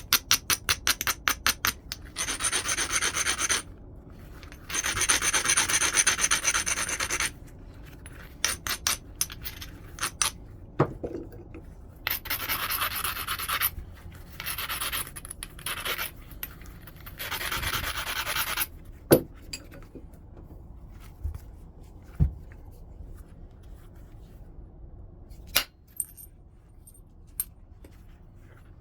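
Flint edge being ground with a coarse abrading stone, first in quick short strokes and then in longer rasping passes of a second or two each, to prepare platforms for flaking. A few sharp clicks come in between the rasping passes.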